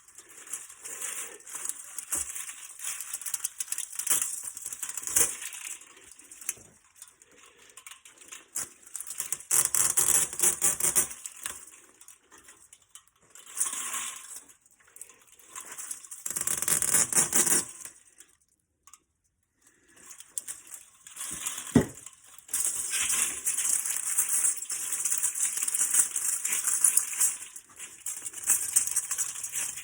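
Thin aluminium fins being torn and stripped off the copper tubing of an HVAC A-coil by hand: a crinkling, rattling metal noise in irregular bursts with short pauses, and one sharp knock about twenty-two seconds in.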